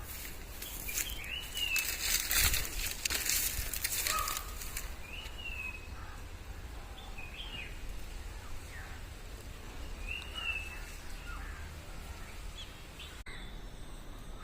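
Birds calling outdoors: short, downward-sliding chirps every few seconds. A burst of rustling, like wings flapping, runs through the first few seconds.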